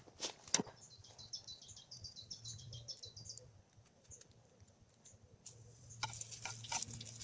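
A songbird singing a fast trill of high notes that falls in pitch over about three seconds. A couple of sharp knocks come just before it, and some clicks and rustling near the end.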